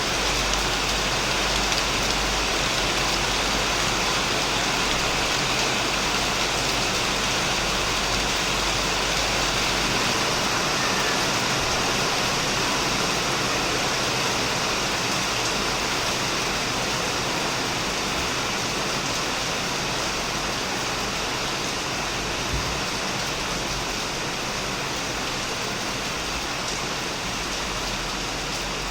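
Heavy rain drumming steadily on a shed roof and surrounding plants, an even hiss of countless drops, with a deep low rumble underneath that eases off about a third of the way in.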